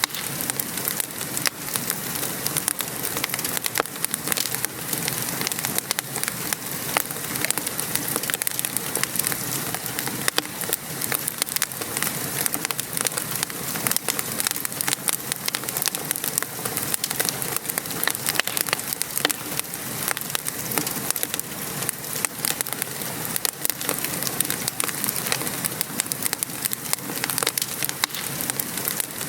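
Steady patter of gentle rain mixed with a crackling fireplace fire: a continuous hiss with many small sharp pops and snaps throughout.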